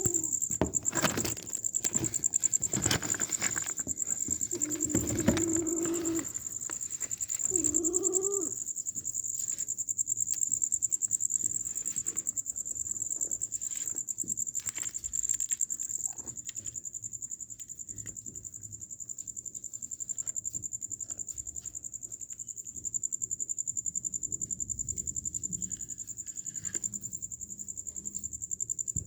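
Steady, high-pitched insect chirring, typical of crickets, runs throughout. Over it come a few short pitched animal calls in the first nine seconds, the last one bending up and then down, along with scattered clicks and knocks.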